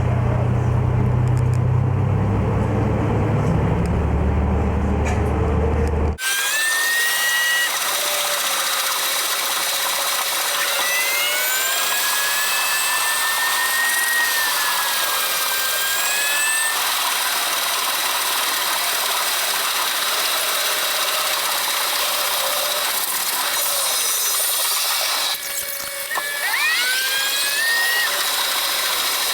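A railcar's diesel engine running with a low steady hum for about six seconds, then a sudden cut to a train running with screeching metallic squeals that slide up and down in pitch, typical of steel wheels squealing against the rails. A second burst of squeals comes near the end.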